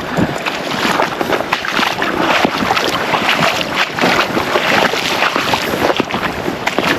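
River water rushing and splashing, a loud continuous wash broken by irregular splashes.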